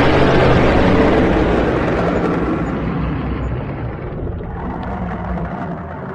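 Dragon sound effect: one long, loud, rough rumbling roar that slowly fades over several seconds.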